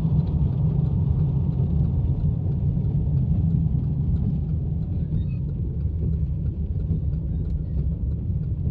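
Steady road and engine drone inside a moving car's cabin, a low even rumble with no distinct events.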